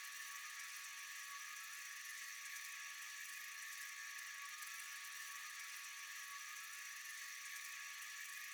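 Steady chorus of night insects: a continuous high-pitched shrill drone that neither swells nor breaks.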